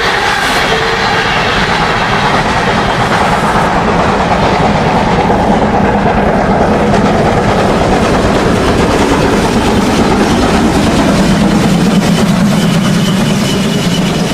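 Märklin model steam locomotives hauling a long train of wagons over a model railway layout: a loud, steady rolling clatter of wheels on the track, mixed with the locomotives' onboard sound. A thin, high whine joins near the end.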